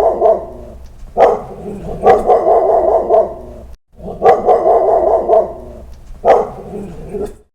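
A dog barking repeatedly, in loud, full-throated barks; the sound breaks off briefly a little before the middle and the same run of barks starts over.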